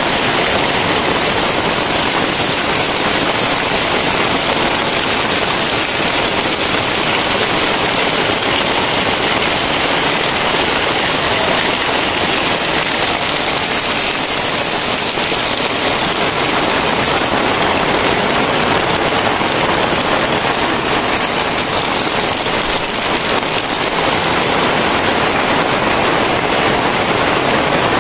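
Very heavy rain pouring steadily, a dense, even hiss of downpour.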